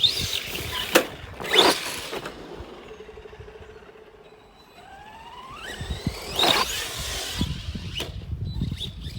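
Arrma Granite 3S RC truck driving hard. Its electric motor whines, rising in pitch as it speeds up around the middle. Several loud, sudden knocks and scuffs come from the truck striking the ground.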